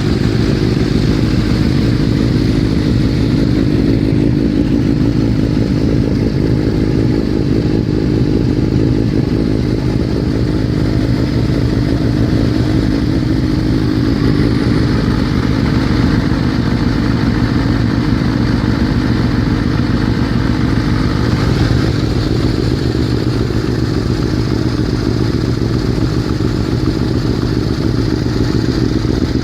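Motorcycle engine running steadily under way, holding an even pace.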